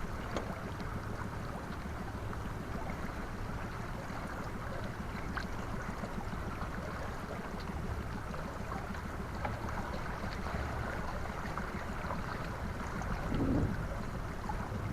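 Wind rushing steadily over the microphone on an open pontoon boat in gusty wind, with a brief louder gust near the end.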